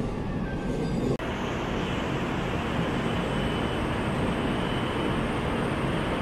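Steady rumble and hiss of Shinkansen bullet trains at a station platform, with a faint steady high whine; the sound changes abruptly about a second in.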